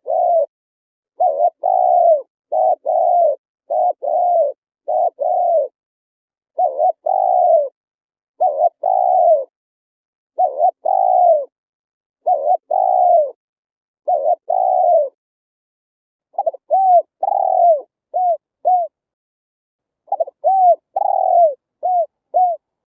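Spotted dove cooing: short groups of two or three low, arched coos repeat every second or two with clean gaps between. The notes become shorter and quicker in the second half.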